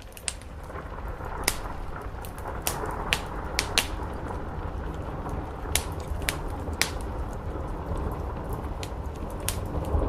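Wood fire crackling, about ten sharp pops scattered through, over a steady hiss of rain on a roof that thickens about a second in, with a low rumble underneath.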